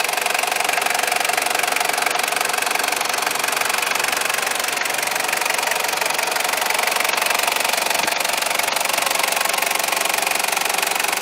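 1996 Toyota Land Cruiser Prado's 3.0-litre turbodiesel engine running steadily at idle.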